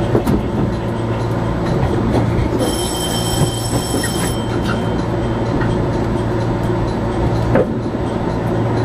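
Running noise of a JR 415 series electric train, heard from the cab: a steady rumble and hum, with sharp clacks of the wheels over joints and pointwork near the start and again near the end. Partway through, a high squeal from the running gear lasts about two seconds.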